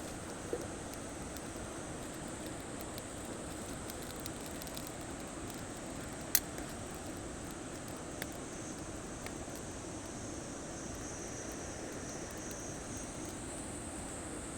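Wood campfire burning with a steady hiss and a few sharp crackles, the loudest about six seconds in.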